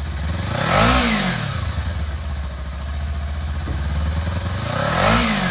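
2013 Kawasaki Ninja 300 SE's fuel-injected twin-cylinder engine idling and revved twice, each throttle blip rising and falling in about a second, one about a second in and one near the end.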